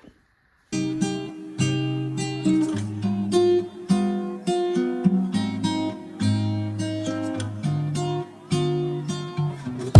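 Acoustic guitar music: a melody of plucked notes, starting under a second in after a brief silence.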